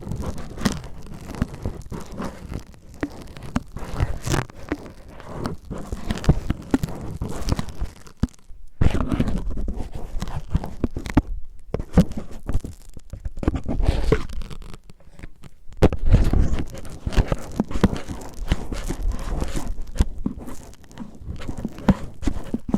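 Cellophane rubbed and crinkled roughly against a microphone in imitation of ear cleaning: dense, irregular crackling and scratching with low rubbing thuds, pausing briefly a few times.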